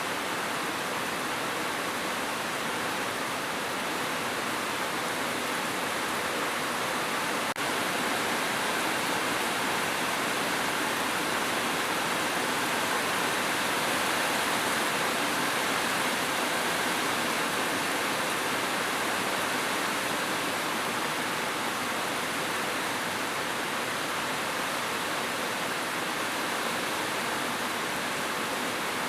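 Steady rain falling, an even hiss with no individual drops standing out.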